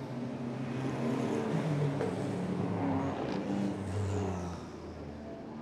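GT race car engines running at moderate revs as cars lap behind the safety car, several engine notes overlapping and shifting in pitch. The sound gets quieter a little past four seconds in.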